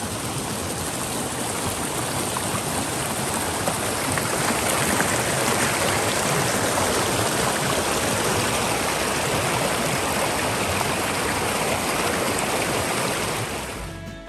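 Steady rush of a mountain stream's running water, fading out near the end.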